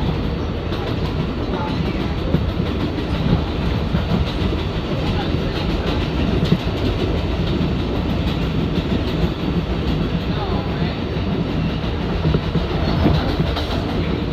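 R188 subway train running steadily, heard from inside the car: a continuous rumble of wheels and motors on the rails.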